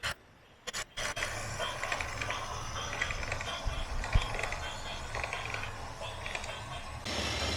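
Heavy construction machinery working: metal clanking and creaking over a low engine rumble.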